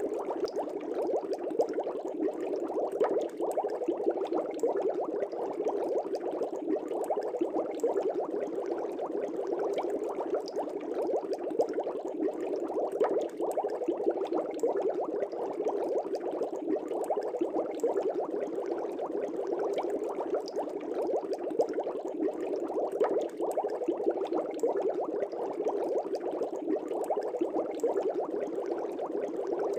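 Aquarium air bubbles rising and breaking at the water surface in a steady, dense bubbling with many small pops.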